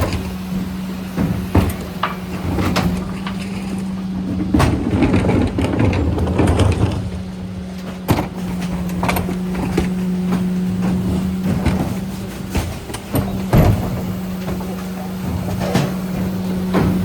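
Mercedes Econic refuse truck running with a steady hum, the hum breaking off briefly about halfway through. Scattered knocks and clatter sound over it, with a rumbling stretch about a quarter of the way in.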